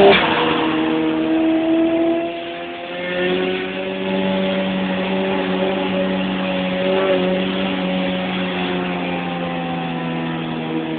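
Car engine accelerating, its pitch climbing for about two seconds, then a brief drop in level and a lower pitch about three seconds in, like a gear change, after which it runs on fairly steadily.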